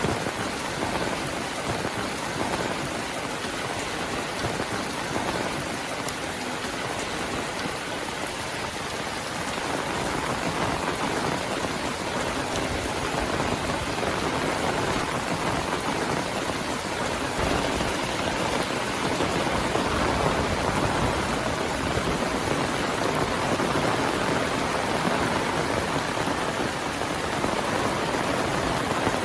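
Heavy monsoon rain falling steadily as a dense, even hiss of rain on surfaces, growing a little louder about ten seconds in.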